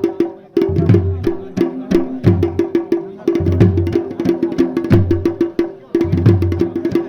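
Garhwali dhol and damau drumming for the Pandav dance: sharp, rapid stick strokes over deep drum beats, in a phrase that repeats about every second and a half.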